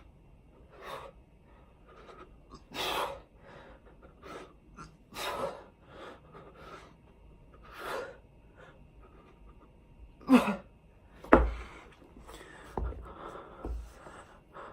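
A man breathing hard through push-ups, with loud puffing exhales every two seconds or so. About ten seconds in he gives a strained grunt, followed by a sharp thud and then two softer bumps.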